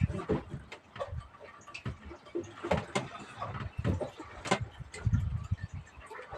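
Irregular knocks and low thumps, several to a second at times, over a faint steady hiss.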